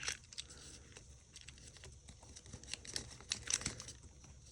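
Small hand tools clicking and scraping against an iPhone 5's internal metal and plastic parts during disassembly: faint, irregular light ticks with a short cluster about three and a half seconds in.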